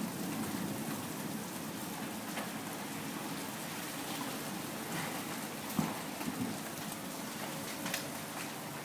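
Hailstorm: a steady hiss of hail and rain falling, with a few sharp knocks of large hailstones striking hard surfaces such as a parked car, the clearest about six seconds in and two more near the end.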